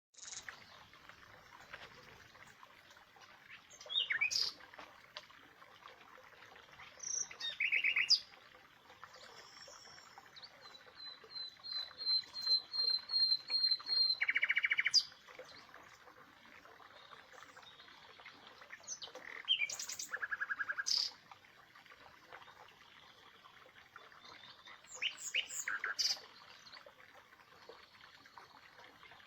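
Birds singing and calling: scattered short phrases of high chirps over a faint steady hiss, with a quick trill of repeated notes about eleven seconds in that runs into a buzzy burst around fourteen seconds.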